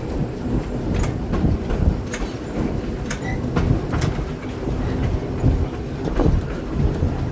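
Wason-built 1926 electric trolley car running along the track: a steady low rumble with sharp clicks and knocks, roughly once a second, as the wheels pass over rail joints.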